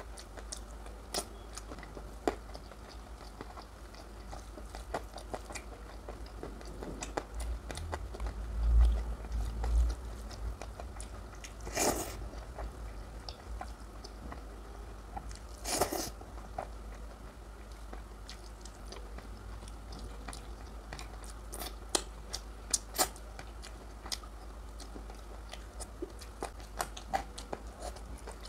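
Close-miked eating sounds of a person chewing and biting curry and rice: a steady run of small wet mouth clicks and smacks. Two louder sharp bites come about twelve and sixteen seconds in, and a couple of low thumps come near the middle.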